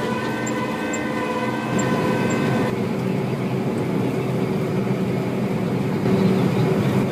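Combine harvester running: a steady mechanical drone with several held whining tones that drop away about three seconds in, leaving a rougher, noisier hum.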